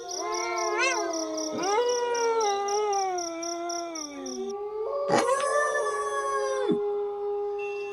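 A pack of wolves howling in chorus, several long howls overlapping. Each howl rises and then slowly falls in pitch, and from about halfway through one lower howl is held steady to the end.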